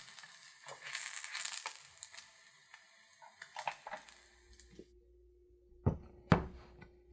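Food frying in oil, a crackling sizzle with small pops, that cuts off suddenly about five seconds in. A faint steady hum follows, broken by two sharp knocks, the second the loudest.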